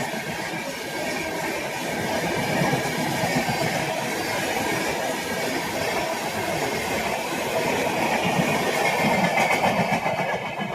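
Indian Railways train passing at speed: a steady, loud rumble of wheels on the track with no horn.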